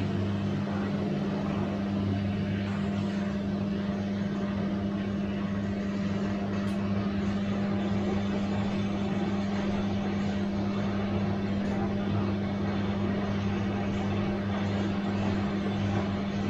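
Bosch washing machine running with a steady, even hum.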